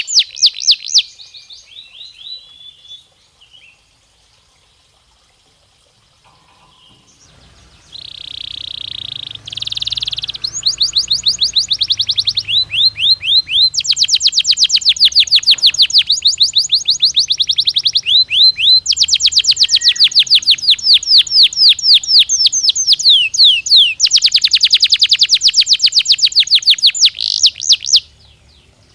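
Domestic canary singing: long rolls of rapid repeated notes, each a quick downward sweep, interrupted by a pause of a few seconds near the start and a couple of brief breaks. The song stops about a second before the end.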